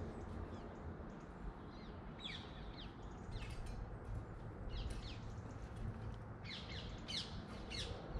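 Small songbirds chirping in scattered groups of quick, high, falling notes, busiest near the end, over a steady low background rumble.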